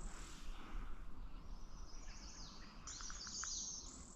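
Several songbirds singing, with a high warbler song about three seconds in. The birder matches this song to a blue-winged warbler, though the singer looks like a golden-winged warbler: a possible hybrid.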